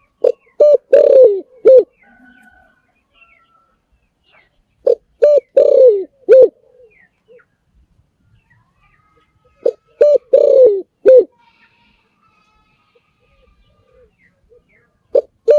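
Spotted dove cooing: a phrase of four low coos, the third longer and drawn out, repeated about every five seconds, three times, with a fourth phrase starting at the end. Faint small-bird chirps sound between the phrases.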